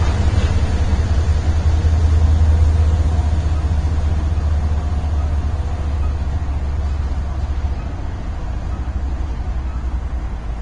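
BNSF freight train passing, its diesel locomotives giving a steady low rumble that is loudest about two to three seconds in and then slowly eases off.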